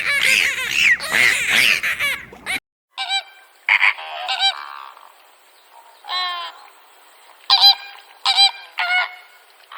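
Animal calls: a busy chorus of high, squeaky chirps for about two and a half seconds, then a sudden cut to a series of separate honking calls, about eight, one of them longer and wavering.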